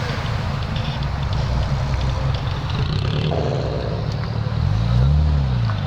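Car engine idling with a steady low rumble, then revved once near the end, the pitch rising and falling back.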